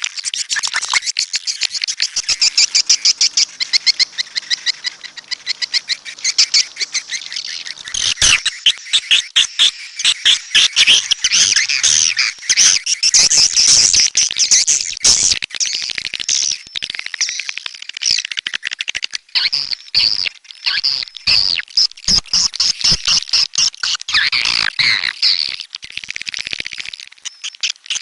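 Swiftlets calling: dense, rapid trains of high twittering chirps from many birds at once. The chatter grows fuller and louder about eight seconds in.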